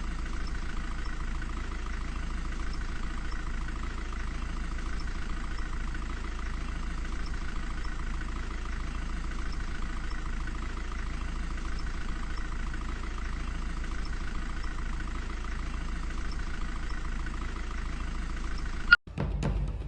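Steady low rumble of a vehicle's engine and road noise, with no change in pace. It stops with a sharp click near the end.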